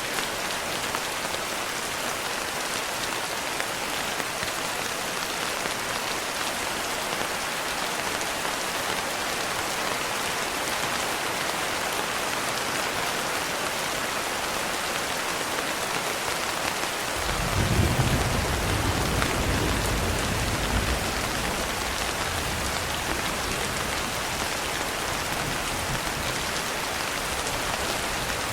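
Steady heavy rain falling and pattering on a surface, with a low rumble of thunder that starts about two thirds of the way in, peaks within a second or so and fades over several seconds.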